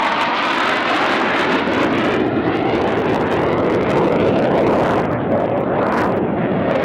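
Jet roar from Blue Angels F/A-18 Hornet fighters flying the display, loud and continuous, losing some of its hiss through the middle and building again near the end.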